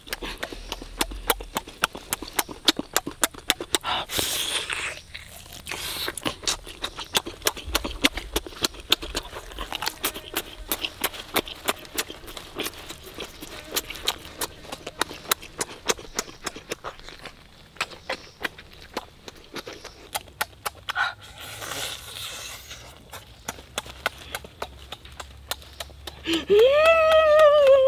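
Close-up open-mouthed chewing and lip-smacking, a fast irregular run of wet clicks, as a whole roasted chicken is bitten and torn with bare hands. Near the end a short voiced exclamation rises and falls in pitch.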